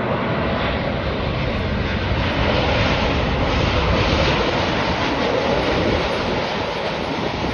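Boeing 787 Dreamliner's twin jet engines heard as the airliner passes close by: a loud rushing noise that swells, is strongest about midway, then begins to ease near the end.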